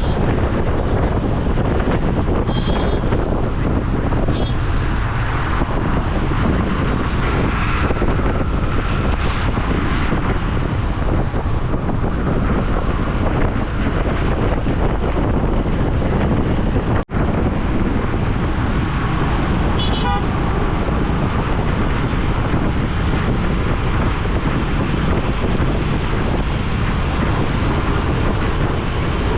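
Wind buffeting the microphone over steady city traffic noise on a motorcycle ride, with short vehicle horn toots near the start and again about two-thirds through. The sound drops out for an instant just past the middle.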